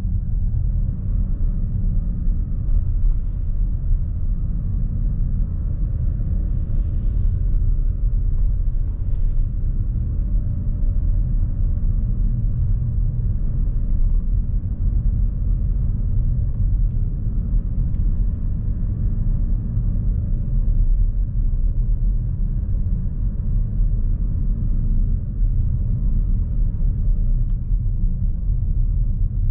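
Steady low road and tyre rumble of a Lexus NX350h hybrid SUV being driven, as heard from inside the cabin.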